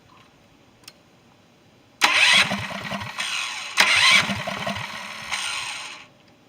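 Electric starter cranking a 7 hp Duromax single-cylinder mini bike engine, in two attempts of about two seconds each with a rapid low pulsing, starting about two seconds in.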